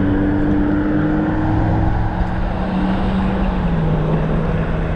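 Wind rushing over the microphone and road noise while riding an e-bike at speed, with a motor's steady hum that slowly drops in pitch.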